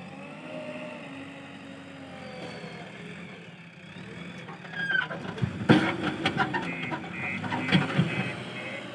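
Backhoe loader's diesel engine running, its pitch rising and falling as the hydraulics work. From about five seconds in comes a loud run of knocks and clatter, the loudest part, with a repeating high beeping toward the end.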